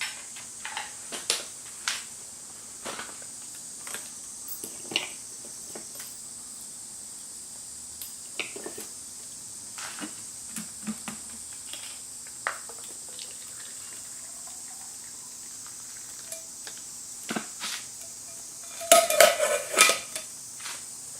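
Metal cookware and utensils clinking and knocking now and then during outdoor cooking, with a burst of clattering about nineteen seconds in. A steady high-pitched hum runs underneath.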